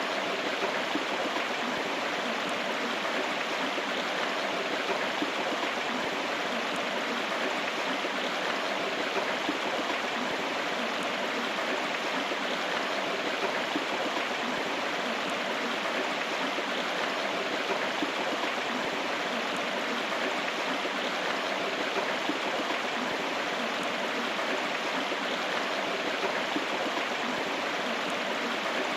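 A river running: a steady, even rush of flowing water with no pauses or changes.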